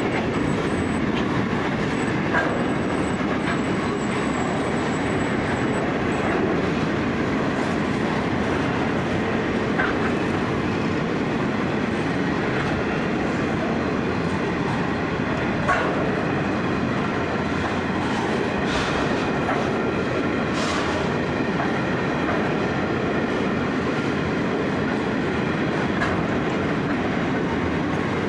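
A freight train of empty grain hopper wagons rolling along the track, a steady rumble of wheels on rail with scattered clicks. A faint high wheel squeal is heard over the first few seconds.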